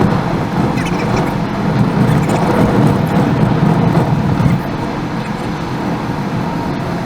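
Steady rumble of a car driving on the road: tyre and engine noise, dropping a little in level about four and a half seconds in, with brief high chirps around a second in.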